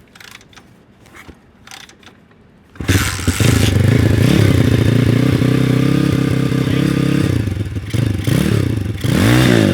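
A few faint clicks, then the swapped-in 140cc single-cylinder four-stroke engine on a Honda CT70 mini bike fires up about three seconds in and runs loudly. Near the end the throttle is blipped twice, each rev rising and falling. This is the engine's first start after the swap.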